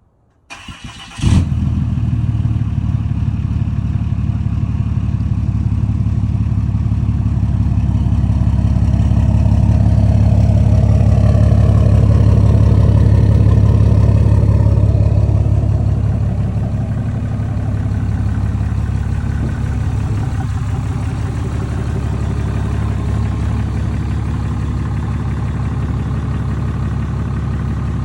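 2018 Dodge Ram's compound-turbocharged engine cold starting: a brief crank, firing about a second in, then a steady cold idle. Partway through, the idle grows slightly louder with a faint tone sliding down, then settles to a somewhat lower steady idle.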